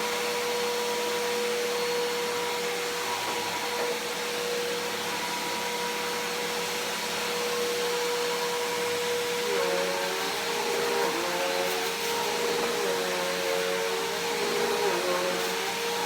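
Bissell PowerForce Helix Turbo upright vacuum cleaner running steadily with a constant motor hum over airflow noise. About two-thirds of the way through, the hum starts to waver up and down in pitch.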